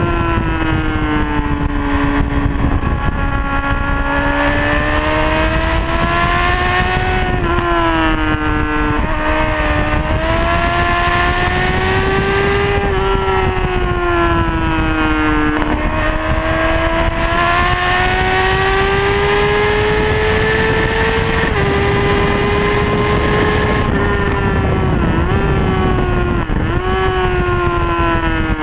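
A Honda CBR600RR's inline-four engine running hard at speed, heard from the bike itself. Its pitch climbs steadily and drops sharply several times, with heavy wind rush on the microphone underneath.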